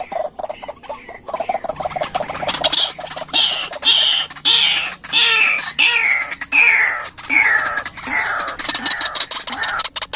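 White-breasted waterhen calling: a quick run of low notes, then a series of loud, harsh calls about one and a half a second, each sliding down in pitch, the series dropping lower towards the end.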